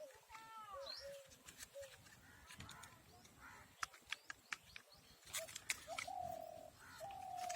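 Faint bird calls in the background, a few arching chirps early on and two longer held notes in the second half, with scattered sharp clicks of plastic toy parts being pushed together.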